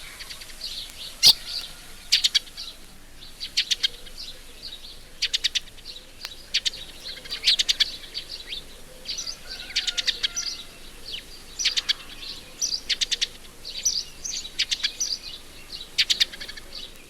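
Tree sparrows giving their sharp chipping call, in short runs of several quick chips about once a second, with softer chirping in between.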